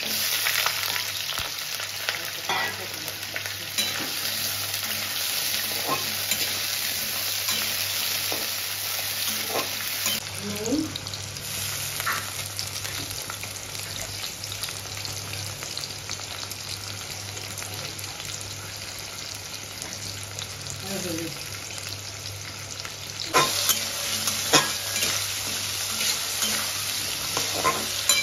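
Cubed potatoes sizzling as they fry in mustard oil in a kadai, with a flat steel spatula now and then scraping and knocking against the pan. The knocks come more often and louder near the end.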